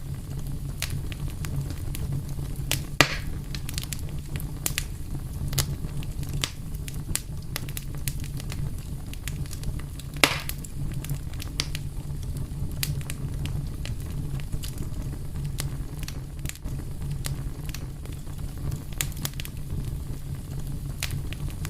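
Wood fire crackling steadily: a low rumble of burning with frequent sharp snaps and pops, two of them louder, about three seconds in and about ten seconds in.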